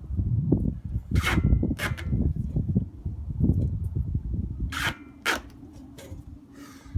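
Duct tape being pulled off the roll and wrapped around a hair dryer's nozzle and a forge air pipe: rubbing, crinkling handling noise with a few short sharp rips of tape, then a faint steady hum near the end.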